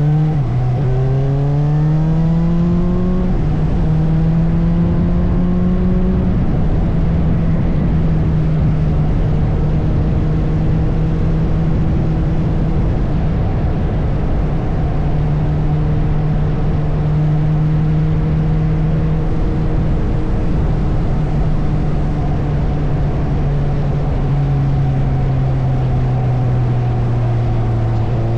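Suzuki motorcycle engine under way. Its revs climb through a couple of gear changes in the first few seconds, then hold steady at cruising speed, and fall away near the end as the bike slows. A steady rush of wind noise lies underneath.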